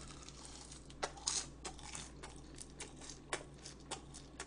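Faint eating and handling sounds: scattered light clicks of utensils against a plastic lunchbox, with a brief rustle about a second in.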